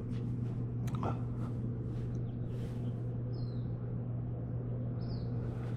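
Steady low hum, with a few faint clicks and two brief high, falling chirps about three and a half and five seconds in.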